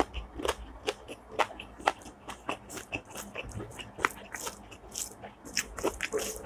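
A person eating close to the microphone: chewing and biting, with irregular sharp mouth clicks and crunches several times a second.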